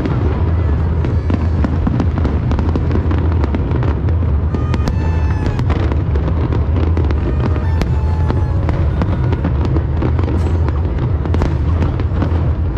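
Fireworks display: a rapid, continuous string of bangs and crackles over a heavy low rumble of booming shells.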